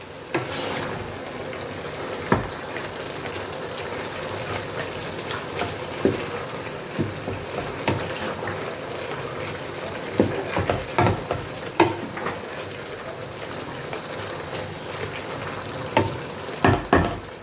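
A pot of green vegetable soup cooking on the stove with a steady sizzle, while a spoon stirs it and now and then knocks against the pot, with the knocks coming in clusters around the middle and near the end.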